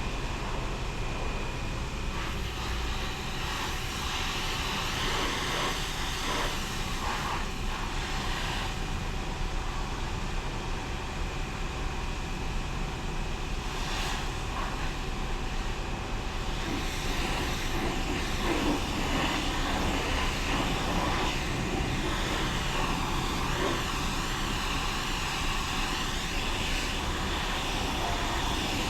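Automatic car wash machinery running: a steady rushing noise with a faint steady machine whine, growing a little louder about halfway through.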